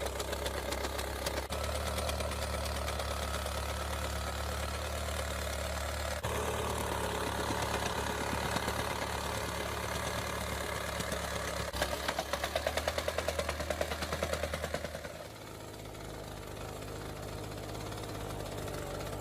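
Restored Meiwa plate compactor's Robin petrol engine running steadily with the rattle of the vibrating machine. About 15 s in it drops to quieter, lower running.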